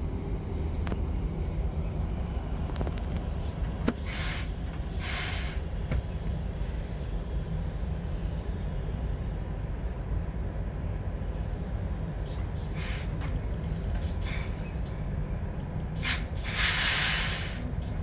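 Regional train running, a steady low rumble heard from on board, with a few short bursts of hiss; the loudest, longest hiss comes near the end.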